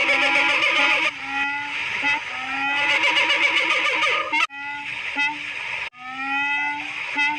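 Repeated animal calls, each a short nasal note rising in pitch, given in quick runs, with sudden breaks where separate recordings are cut together.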